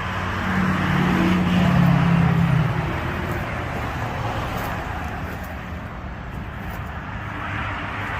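A motor vehicle's engine running, swelling louder with a raised note from about half a second in and settling back to a steady run by about three seconds.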